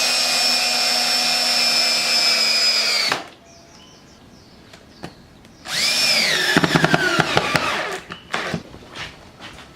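A drill running in two bursts. The first is a steady whine that stops abruptly about three seconds in. After a pause comes a second run whose pitch sags under load, with rapid clicks, as it fastens the dowel-making jig down. A few light knocks follow.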